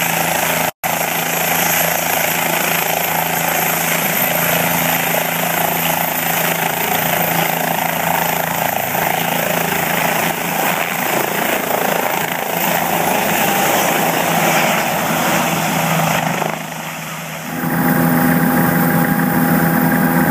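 Helicopter engine and rotors running steadily, heard close up, with a momentary cut about a second in. Near the end the sound dips briefly, then settles into a steadier hum with clearer tones.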